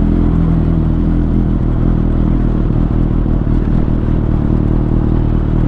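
Superbike engine idling steadily just after being started.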